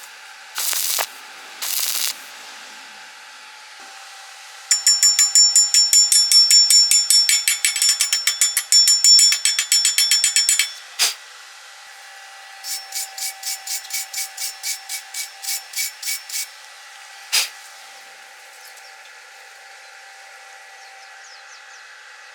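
A hand tool working a steel workpiece in quick repeated strokes, with a metallic ring. There are two runs of strokes, the second slower at about three or four a second, each followed by a single sharp click.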